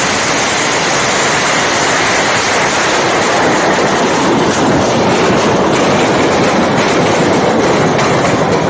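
Large building fire burning with a steady rushing roar, with crackling pops growing more frequent in the second half.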